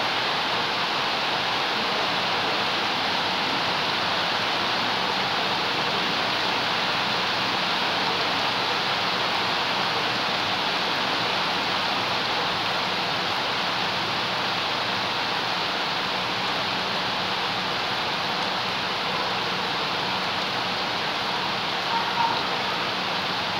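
Steady rain falling on leaves and wet ground, an even hiss with no letup. There is one short louder tap near the end.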